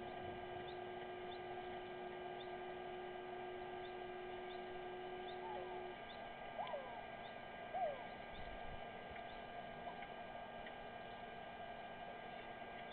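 Steady electrical hum, with a faint high chirp repeating about once a second. A few short gliding calls come about seven to eight seconds in.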